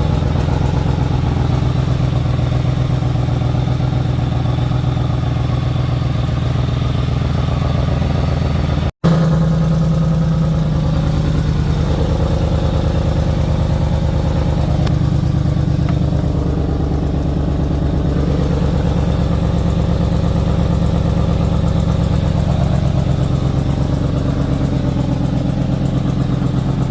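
2004 Ford Expedition's 4.6-litre V8 idling steadily with its MAF sensor unplugged, running on without stalling, which points to a faulty MAF sensor. The sound breaks off for a split second about nine seconds in.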